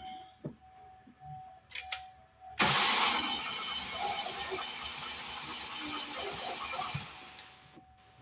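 Car engine turned over by the starter motor for about four seconds, with a compression gauge fitted in the number 4 cylinder's spark plug hole. It comes in suddenly a couple of seconds in, after a few light clicks, and dies away near the end. The gauge stays at zero during this cranking: no compression in that cylinder.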